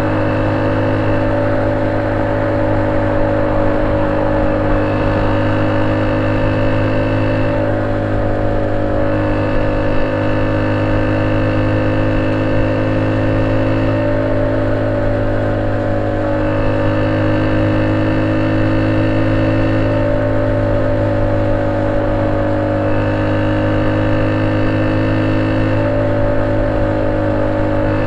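Honda C70 single-cylinder four-stroke engine running through a banana-style ('pisang') exhaust, holding a steady, even speed with no revving.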